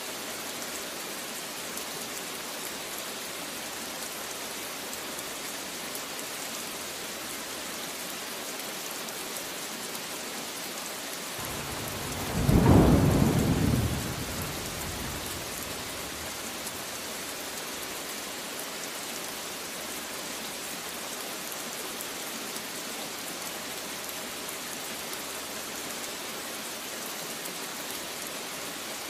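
Steady heavy rain falling, with a single loud thunderclap about twelve seconds in that rumbles for a couple of seconds and fades.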